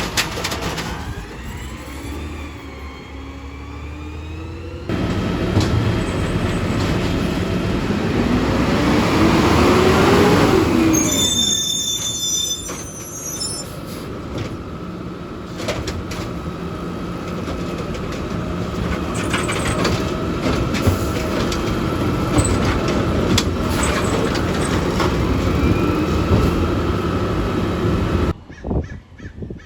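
Garbage truck at work: the engine runs up under load with a rising hydraulic whine, brief high metallic squeals, then a steady whine over the running engine. The sound cuts off abruptly near the end.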